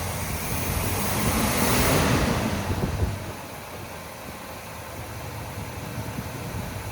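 Chevy 350 V8 idling smoothly, its carburetor's leaking vacuum port plugged. About three seconds in, the sound drops to a quieter steady level.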